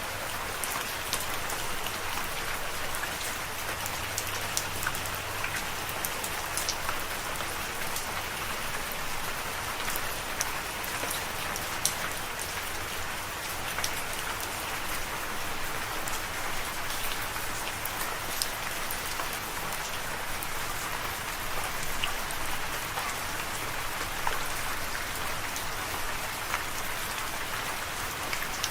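Steady rain falling, an even hiss with many sharp individual drops ticking on a surface throughout.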